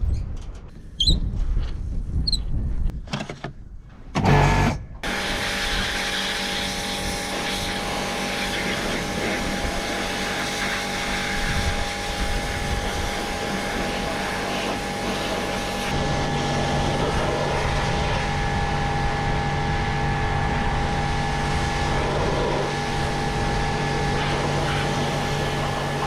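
A few knocks and a loud thump about four seconds in, then a pressure washer running steadily: a motor and pump drone under the hiss of the spray. The drone drops a little in pitch about two-thirds of the way through.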